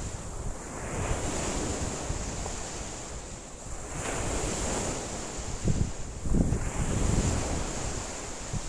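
Wind-driven lake waves washing in and out in surges every two to three seconds. Strong wind buffets the microphone in low rumbling gusts, heaviest about two-thirds of the way through.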